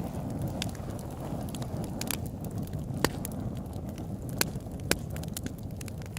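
Campfire crackling: sharp wood pops and snaps at irregular intervals, a few louder ones, over a steady low rushing hiss.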